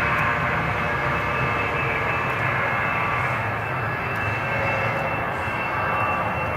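Fokker 100's twin Rolls-Royce Tay turbofan engines running at a steady level: a whine made of several steady tones over a continuous rumble.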